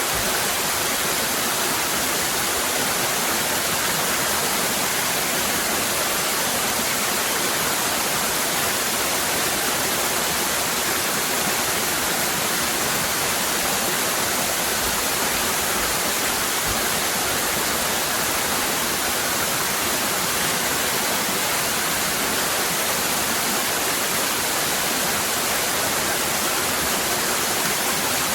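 Cascading waterfall: a steady, even rush of falling water with no breaks.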